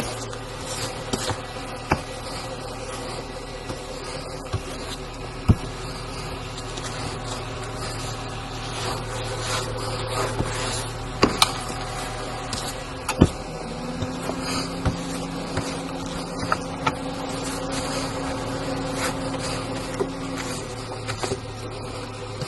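Steady hum inside a car being driven, with scattered sharp clicks and ticks. About fourteen seconds in, a higher, steady hum joins. It stops suddenly about twenty seconds in.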